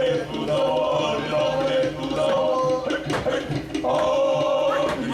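A group of Māori performers singing a chant together in unison, holding long notes that change pitch every second or so, with a few sharp percussive strikes about three seconds in.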